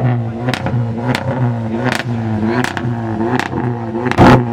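Volkswagen engine being revved over and over, its exhaust note rising and falling in a steady rhythm, with sharp cracks at each rev and one loud bang about four seconds in.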